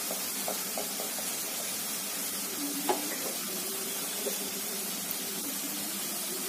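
Onion and spice masala sizzling steadily in hot oil in a kadhai, with a few faint clicks and one sharper knock about three seconds in.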